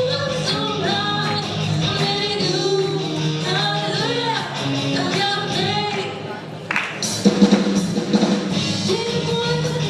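Live rock band playing with a lead singer: vocals over guitar and drum kit. About two-thirds of the way through, the music thins out briefly, then the full band comes back in loudly with hard drum hits.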